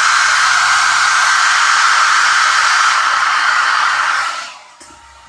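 Handheld hair dryer on its cool setting, blowing a steady rush of air with a faint whine, then switched off and winding down about four seconds in.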